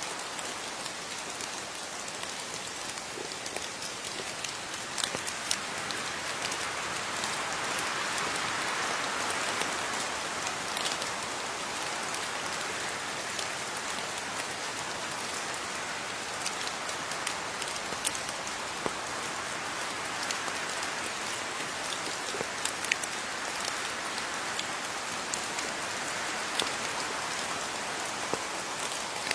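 Steady rain falling, with many separate drops ticking sharply on a surface over the hiss.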